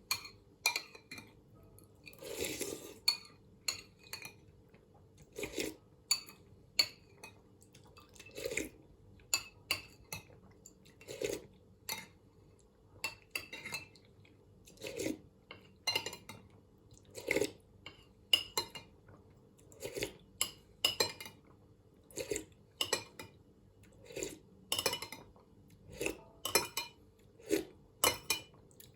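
A spoon clinking against a soup bowl again and again, roughly once every second or so, as soup is eaten.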